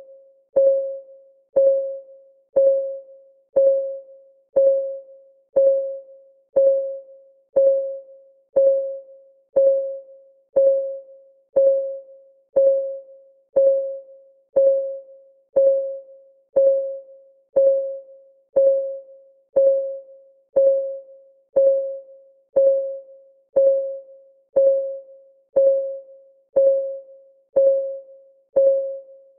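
Clock-style timer ticking, one tick a second, each tick a short pitched ping that dies away quickly.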